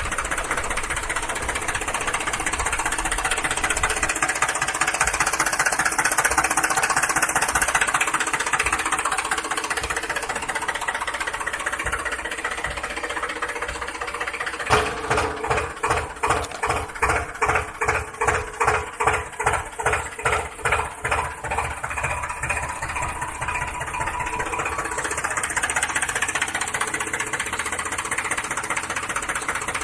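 An engine-like running sound, steady for most of the stretch, with a pulsing of about three beats a second from about halfway in for several seconds.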